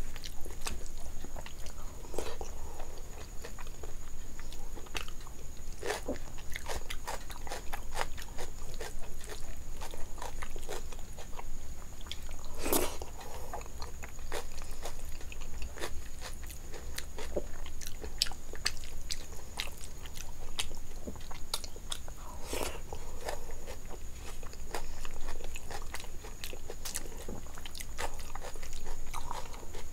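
Close-miked eating sounds of a person eating rice and curry by hand: chewing with many short wet mouth clicks and smacks, and fingers squishing rice on the plate. A faint steady high-pitched tone runs underneath.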